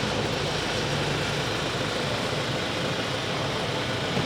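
Steady vehicle noise: an even rushing hiss over a low hum, with no change in level.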